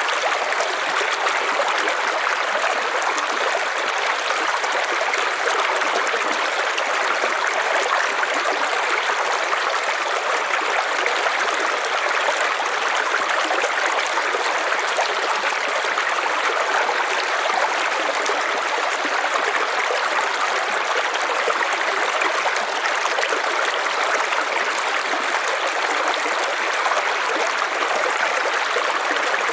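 River water flowing over stones, a steady, even rushing and babbling without change.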